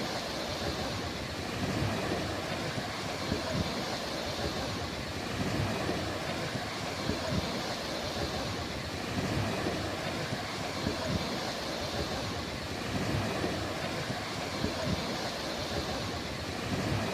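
Sea waves washing onto a beach, the surf swelling and easing every few seconds, with wind rumbling on the microphone.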